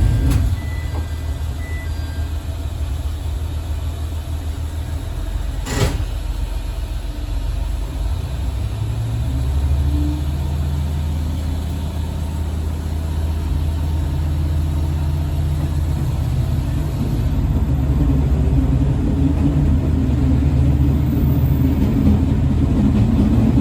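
Diesel railcar's engine, quiet at first and then revving up about eight seconds in as the train pulls away, its pitch rising in steps. A sharp knock about six seconds in.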